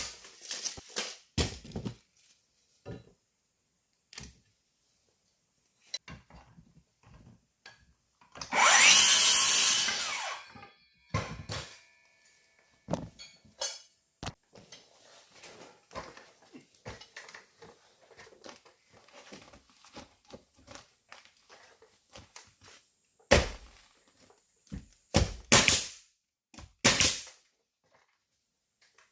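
Carpentry on wooden ceiling furring strips: knocks and clatter of timber being handled, a power saw cutting for about a second and a half around nine seconds in, and a few sharp loud strikes near the end.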